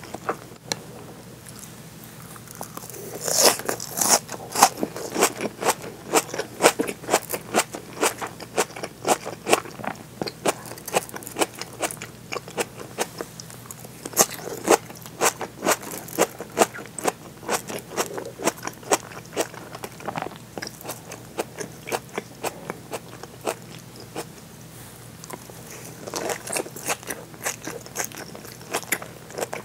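Chewing of seared bonito (katsuo no tataki) topped with raw sliced green onions, with crisp, wet crunching clicks several times a second. The chewing picks up about three seconds in, eases off for a few seconds about three-quarters through, then resumes.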